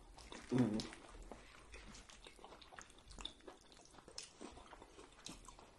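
Close-miked chewing and lip smacking from people eating, heard as many small, sharp mouth clicks. A short vocal sound comes about half a second in.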